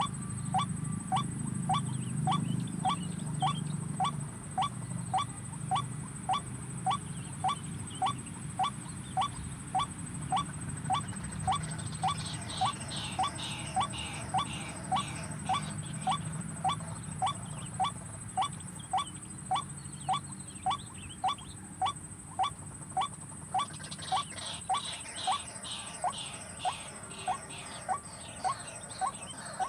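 White-breasted waterhen calling, the same short note repeated evenly a little under twice a second. Fainter, higher chatter joins twice, about twelve and twenty-four seconds in.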